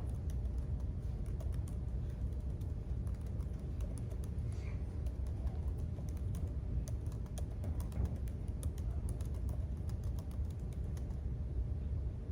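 Typing on a computer keyboard: a quick, uneven run of key clicks that thins out near the end, over a steady low hum.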